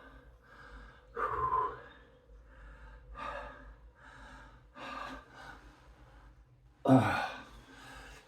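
A man breathing hard with effort, puffing out short breaths in a rhythm while doing exercise repetitions, with two louder, forced exhalations about a second in and about seven seconds in.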